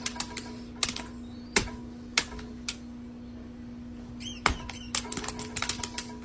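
Irregular sharp clicks and taps, some in quick clusters, over a low steady hum, with a few brief high chirps about four seconds in.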